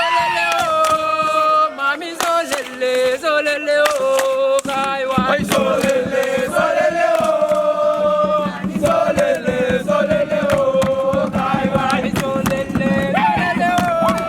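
A group of young voices chanting a song together, with sharp beats running through it. About five seconds in the sound grows fuller and deeper as more low sound joins the chant.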